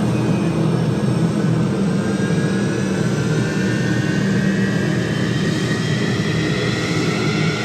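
F-16 fighter jet engines, a loud steady roar with a whine that slowly rises in pitch.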